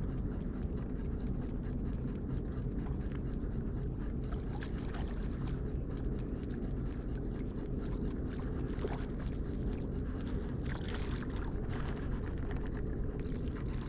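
Steady low rumble of a kayak on open water, with faint scattered ticks and a brief hiss of water about nine to eleven seconds in.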